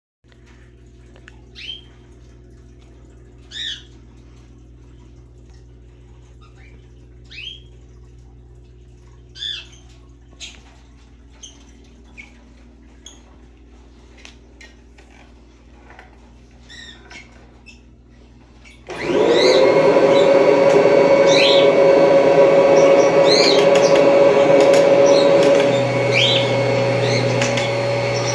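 Birds chirping over a faint hum, then about two-thirds of the way in a 1991 Kirby Generation 3 upright vacuum cleaner is switched on, its motor spinning up quickly to a loud, steady whine. Near the end the level drops a little and a lower hum joins in. The birds go on chirping over the motor.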